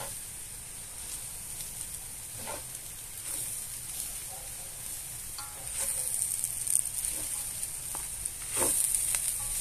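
Corn-flour farofa with bacon and collard greens sizzling in a cast-iron skillet as it is stirred with a wooden spoon and a metal spoon, with a scraping stroke every couple of seconds. The sizzle grows louder about halfway through, as the greens are folded into the hot mixture.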